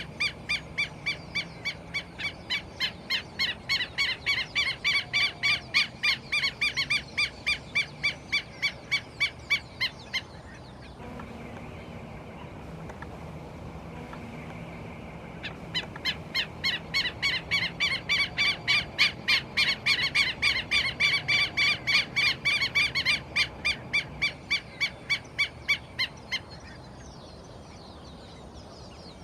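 Red-legged seriema calling: two long series of loud, yelping notes, about four a second. The first series stops about ten seconds in, and the second starts some five seconds later and runs about ten seconds.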